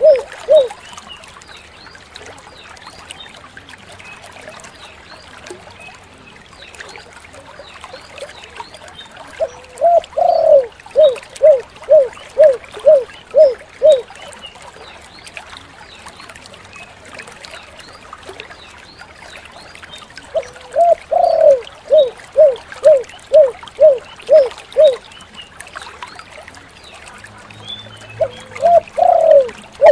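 Spotted dove (tekukur) cooing: each phrase opens with a rising coo and a longer drawn-out coo, then a quick run of short even coos, the 'kuk 7' pattern. The phrases repeat about every ten seconds, with a steady faint hiss like trickling water underneath.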